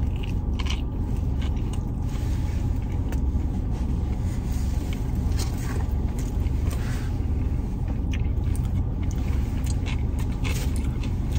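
A person biting into and chewing a crispy fried chicken sandwich: irregular crisp crunches and mouth clicks. Underneath is the steady low rumble of the car she sits in, which is running.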